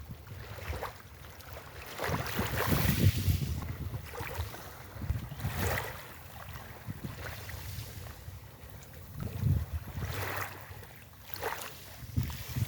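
Sea waves washing onto a beach in several surges, the biggest about two to three seconds in, under wind that buffets the microphone with a low rumble.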